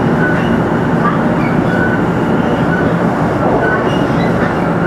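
Running noise heard inside a 500 Series Shinkansen car travelling along the line: a steady, loud rumble of wheels, track and air, with occasional brief high squeaks.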